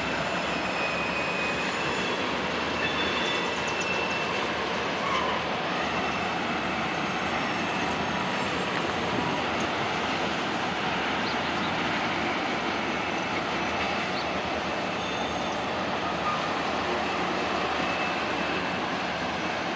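Norfolk Southern freight train rolling by: EMD diesel locomotives pulling away around a curve and a string of tank cars passing over the rails in a steady rumble, with faint high wheel squeals here and there.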